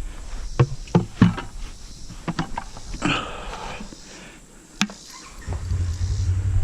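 A few sharp knocks and clatters of objects being handled, a scrape, and one more click, then about five and a half seconds in a steady low mechanical hum starts up and keeps going.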